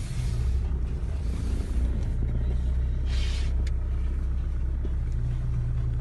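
1988 Nissan Patrol's 3.3 turbo diesel engine running at a steady low note, with a brief hiss about three seconds in.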